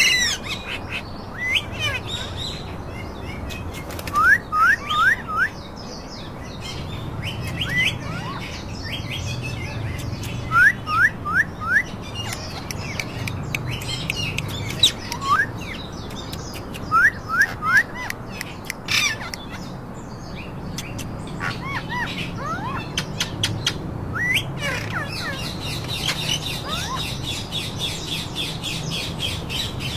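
Pet parakeets chirping: short rising calls in quick runs of three or four, repeating every few seconds, with other scattered squeaks. Near the end comes a rapid high chatter, all over a low steady hum.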